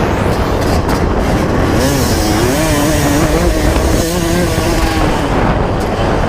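1995 Honda CR250 two-stroke motocross engine being ridden, its pitch rising and falling as the throttle is worked, over a heavy low rumble.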